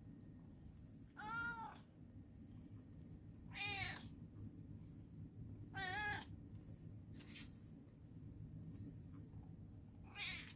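Domestic cat meowing four times, short pitched meows a few seconds apart, over a steady low hum.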